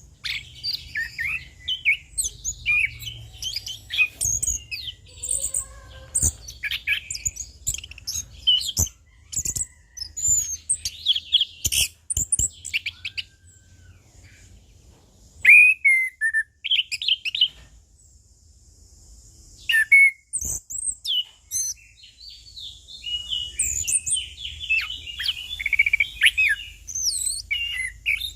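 Chestnut-capped thrush (anis kembang) singing a fast, varied song of short whistled and chattering phrases, with a brief lull about halfway through. A few sharp clicks sound in between.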